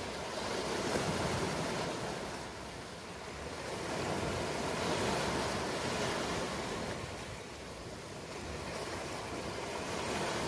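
Ocean waves washing onto a shore in a continuous surf noise that swells and eases in slow surges, a peak roughly every four to five seconds.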